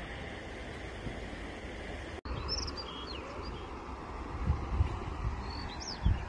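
Outdoor riverside ambience: a steady rushing background with small birds chirping in short bursts, a cluster a little after a cut about two seconds in and another near the end. Several low thumps come in the second half.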